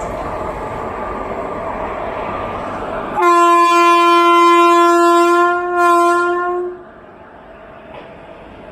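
Indian Railways locomotive horn sounding one long, loud, steady blast of about three and a half seconds, briefly dipping near its end, after a few seconds of train rumble.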